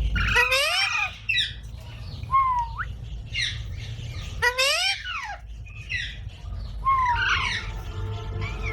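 A parrot squawking in a run of short, harsh calls, some of them sweeping up sharply in pitch, repeated every second or so over a steady low hum.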